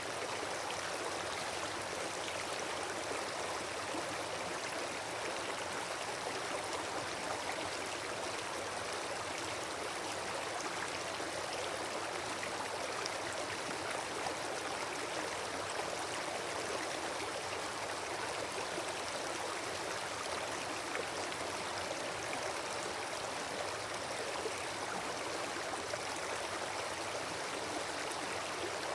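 Steady rushing noise like running water, with faint scattered ticks from a campfire that has burned down to embers.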